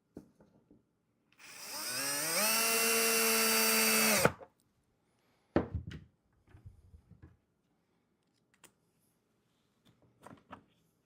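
Power drill spinning up in a rising whine, running steadily for about two seconds, then stopping sharply. It is driving a small screw to fasten a door latch into the cedar hive box. A knock and a few light handling clicks follow.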